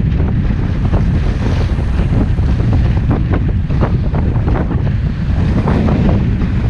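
Strong wind buffeting the camera microphone: a loud, continuous low rumble that surges irregularly with the gusts.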